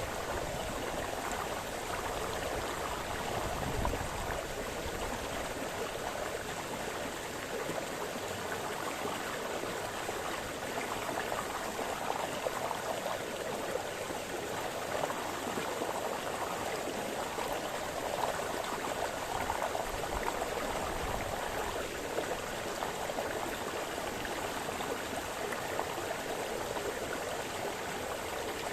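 Small brook babbling and splashing over stones, a steady rushing with fine trickling detail and an occasional low plop.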